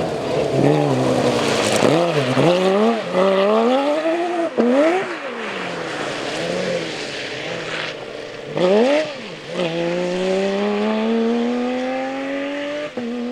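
Rally car engine revving hard, the pitch swinging up and down several times as the driver blips and lifts through corners, then accelerating away in one long rising pull with a quick gear change near the end.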